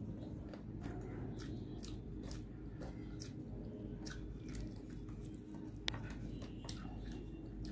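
Close-up eating sounds: a person chewing and crunching a mouthful of rice and fried fish, with scattered short wet clicks and one sharp click about six seconds in, over a steady low hum.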